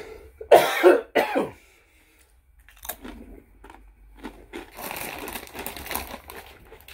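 A man coughs twice in quick succession about half a second in, while eating tortilla chips. Softer crackly crunching and rustling follows for a few seconds.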